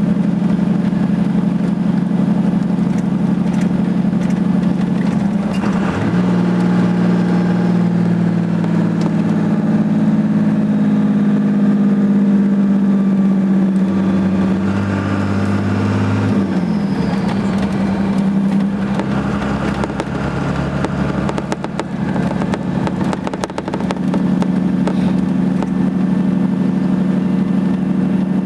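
Dodge Ram 2500's Cummins inline-six diesel running under exhaust-brake load on a steep downgrade, holding the truck back without the service brakes. The engine note is steady, with two shifts in pitch, about six seconds in and again near seventeen seconds.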